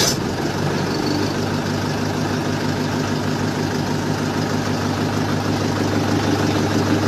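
Mahindra tractor's diesel engine idling steadily with an even, unchanging note.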